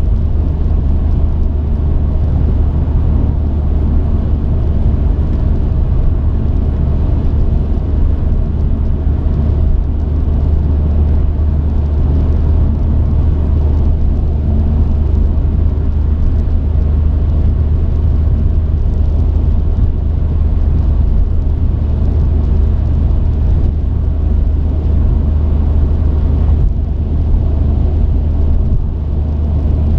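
Truck driving: a steady low engine drone with road rumble, heard from inside the cab.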